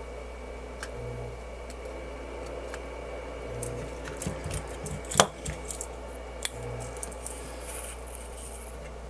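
A run of small clicks and taps, the loudest a sharp click about five seconds in, over a steady low hum.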